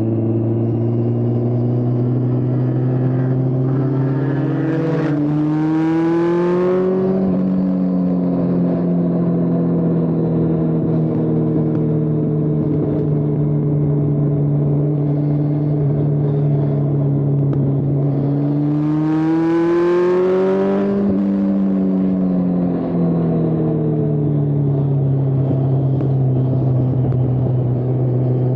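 2002 Yamaha Fazer 600's inline-four engine breathing through an aftermarket Arrow exhaust, idling steadily and revved twice. About five seconds in and again about two-thirds of the way through, the revs climb for a couple of seconds and then drop back to idle.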